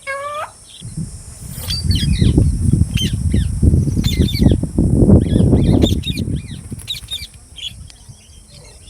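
A parrot's wings flapping close by for about six seconds, loud and irregular, starting about a second in. Short high chirps and squawks from green parrots come throughout, with a brief rising call at the very start.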